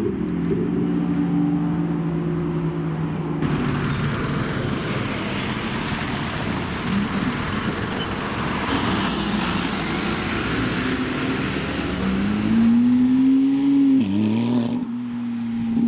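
Supercar engines running as the cars drive in slowly, over a steady rush of traffic and street noise. About twelve seconds in, one engine revs up and its pitch drops sharply around fourteen seconds, like a gear change, then holds steady.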